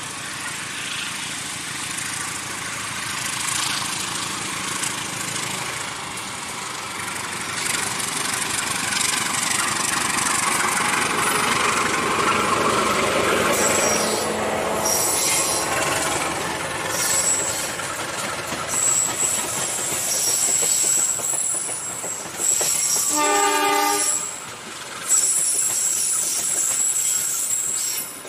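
An Indonesian diesel locomotive approaching along the track, its running noise growing louder over the first several seconds. From about halfway, a thin high squeal from the wheels comes and goes. Near the end there is a short horn blast of about a second.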